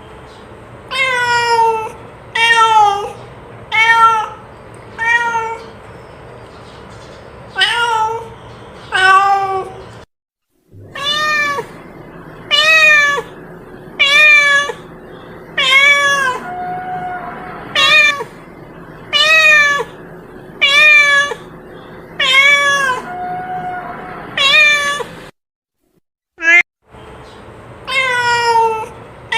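Domestic cat meowing over and over, roughly one meow every second or so, each call falling in pitch. The run breaks off into silence twice, briefly.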